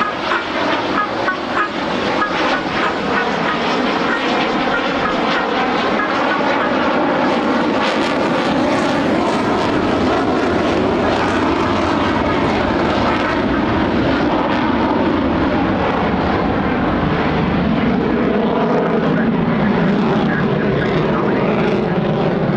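Jet engine noise from an F-16 Fighting Falcon in flight: a loud, steady rush, with some crackle in the first couple of seconds.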